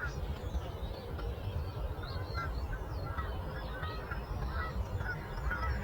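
Birds calling with many short chirps, overlapping at irregular intervals, over a steady low rumble of breeze.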